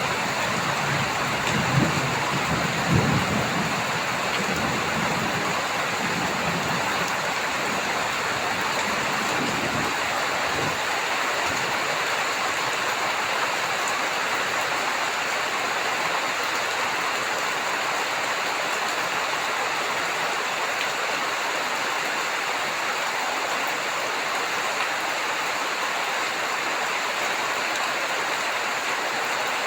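Heavy rain pouring steadily. Low thunder rumbles and dies away over the first few seconds, with a faint further rumble about ten seconds in.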